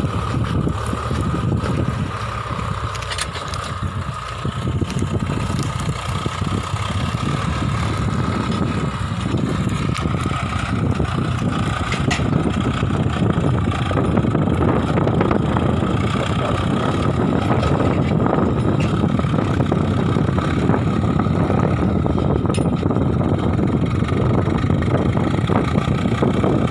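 Swaraj 744 FE tractor's three-cylinder diesel engine running steadily, a little louder after the first few seconds, with a steady high whine alongside.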